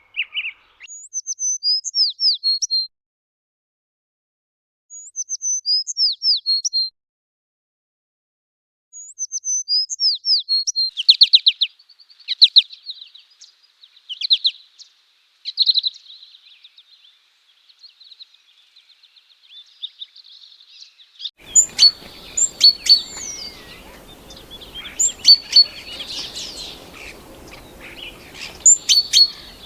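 A songbird singing short, quick phrases of high, falling whistled notes, three phrases with pauses between them, running into a long rapid trill. About two-thirds of the way through, a different recording cuts in with background hiss and several birds chirping.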